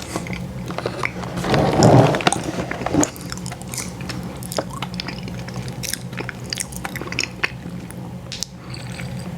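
Close-miked chewing and biting of an ice cream sandwich, with many short wet clicks and a louder, fuller bite about two seconds in.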